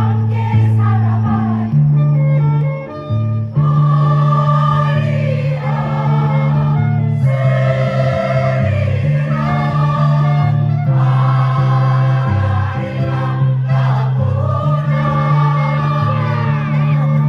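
Mixed choir singing a song with instrumental accompaniment, sustained chords shifting every second or two.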